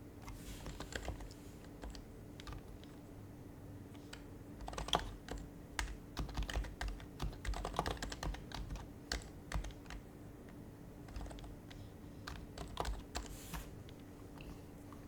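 Typing on an HHKB Professional HYBRID Type-S keyboard with its quietened Topre electrostatic capacitive switches: soft keystrokes in irregular bursts. The typing is densest in the middle, with short pauses between runs of keys.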